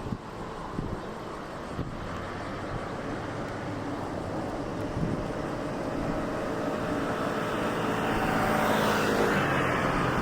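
A steady motor vehicle rumble that grows slowly louder and then levels off, with a few faint knocks in the first two seconds.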